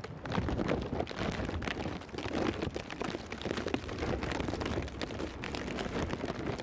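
Wind buffeting the microphone outdoors in a snowstorm: a steady rushing noise with many irregular crackles.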